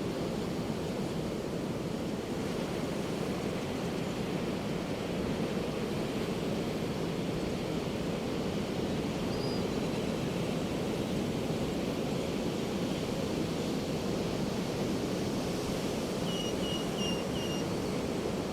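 Ocean surf washing steadily on a beach, a continuous rush with no single crash standing out. Near the end a bird gives four short high calls in quick succession.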